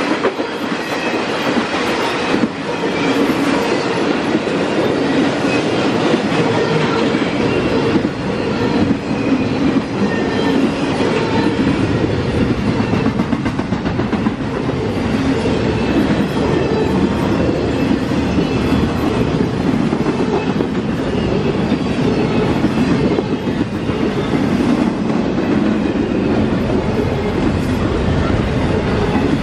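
An intermodal freight train's cars, loaded with truck trailers and containers, rolling past at speed: a steady, continuous rumble and rattle of wheels on the rails. The deeper rumble grows fuller about seven seconds in.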